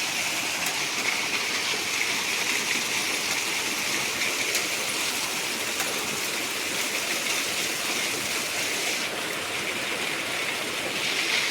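Heavy storm rain pouring down: a dense, steady hiss with scattered sharp ticks, briefly a little softer about nine seconds in.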